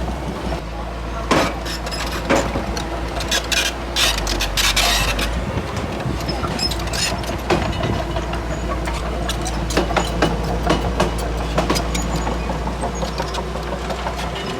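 Bulldozer at work: its diesel engine runs steadily under load, with repeated sharp clanks and knocks scattered through, typical of steel tracks and blade working over soil and rock.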